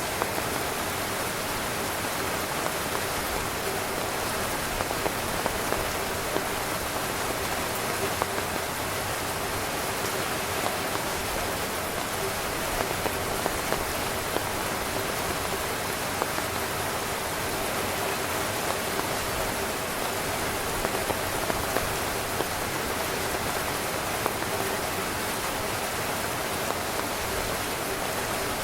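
Steady rain falling on a tent: an even hiss of rainfall with many separate drops tapping on the fabric, unchanging throughout.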